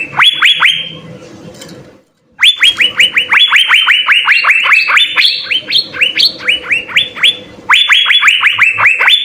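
Asian fairy-bluebird (cucak biru) singing: rapid runs of sharp, downward-sweeping whistled notes, about six a second, in bouts with short pauses, the longest run in the middle with some higher notes mixed in. A faint steady hum lies underneath.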